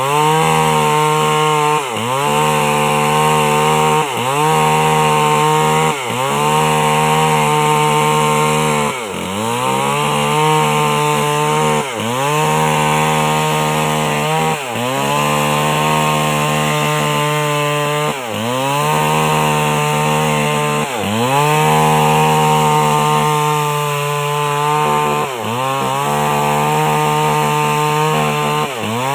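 Old chainsaw running at high revs while ripping a coconut palm trunk lengthwise. Its engine pitch drops under load and climbs back every two to three seconds as the bar bites into the wood.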